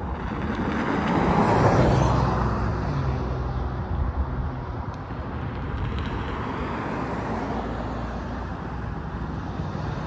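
CSX mixed freight train passing, a steady noise that swells to its loudest about two seconds in and then holds level.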